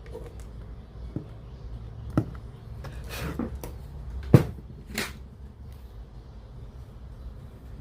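A few separate sharp knocks and clicks, the loudest about four seconds in, over a low steady hum: handling noise from hands and tools on a portable radio cassette player under repair.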